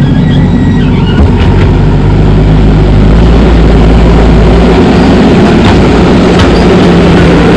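JCB 3DX backhoe loader's diesel engine running steadily while it works soil, getting a little louder about three seconds in, with a few faint clicks over it.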